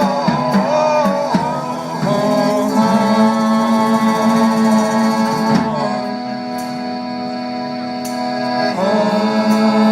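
A live folk band playing an instrumental passage of a sea-shanty-style song, with sustained chords that change just before the middle and again near the end.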